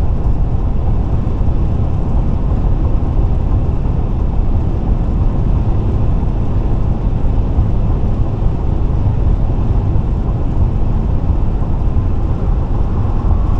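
Steady road noise of a car travelling at interstate speed: a constant low rumble of tyres and engine, heard from inside the car.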